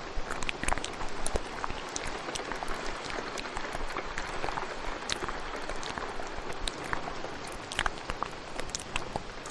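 Steady rain with many small, wet mouth clicks and smacks scattered over it, layered ASMR mouth sounds.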